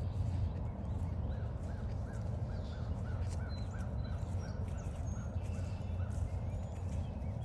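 Birds calling in woodland: from about a second in, one bird gives a quick run of short, harsh calls, about four a second, with fainter high chirps and whistles from other birds above it. Under it all runs a steady low rumble.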